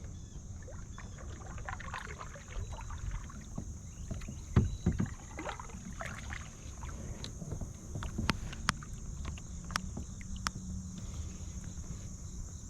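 Kayak handling sounds on the water: scattered light knocks and clicks against the boat over a steady low rumble, with a couple of louder thumps about four to five seconds in. A steady high insect drone runs behind.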